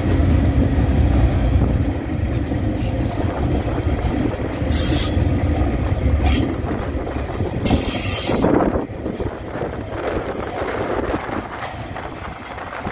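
Loaded log wagons of a Tasrail freight train rolling past close by: a steady low rumble of steel wheels on rail, broken by several brief high-pitched bursts of wheel squeal. The rumble eases over the last few seconds.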